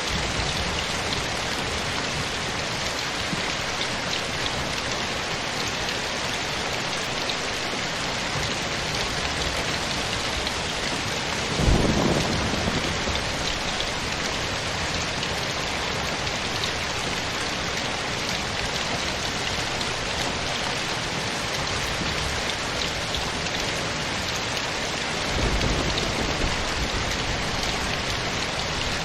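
Steady rain falling, with two low rumbles of thunder: a sharper one about twelve seconds in, and a softer one near the end.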